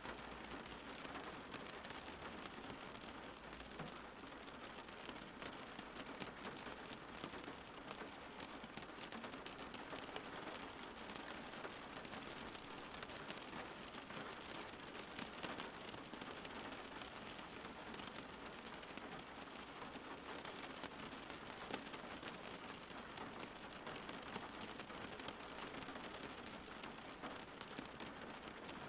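Steady rain falling on a surface, an even patter of many drops.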